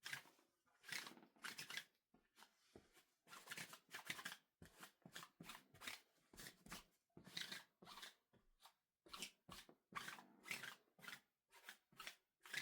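Clean clothes being handled and folded: fabric rustling and brushing in a quick, irregular run of short swishes.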